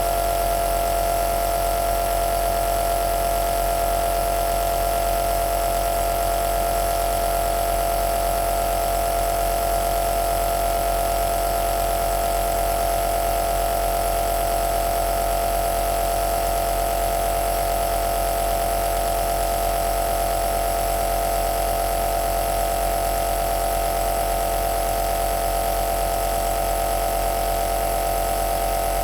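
Compressor nebulizer (aerosol machine) running steadily. It makes a continuous motor hum with a mid-pitched whine over an even airy hiss.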